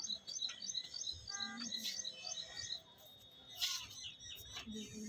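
A small bird chirping over and over, about four short high chirps a second, pausing about halfway and starting again near the end, with a few sharp knocks in the background.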